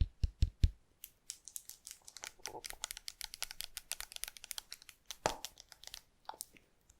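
Slime being squished and worked close to the microphone: a few soft low thumps at first, then a dense run of small crackling pops and clicks.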